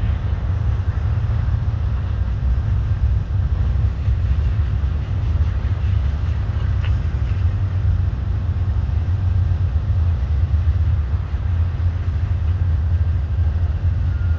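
Yamaha DT125 air-cooled two-stroke single-cylinder engine running steadily, a low, even rumble. Its carburettor jet has been homemade from a sewing needle and epoxy so that the engine will idle.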